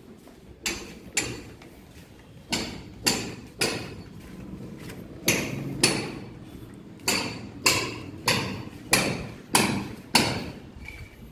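Hammer blows, about a dozen sharp strikes in irregular groups of two or three, each with a short ringing decay.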